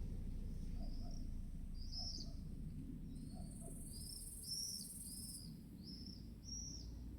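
A small songbird calling in a run of short, arched high chirps, about two a second in the second half, over a low wind rumble. A high hiss rises and stops between about three and five seconds in.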